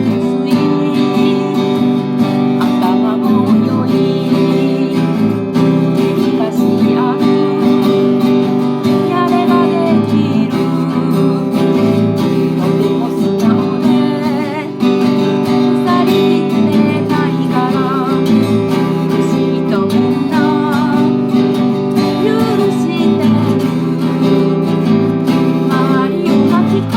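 Acoustic guitar strummed steadily as accompaniment to a song.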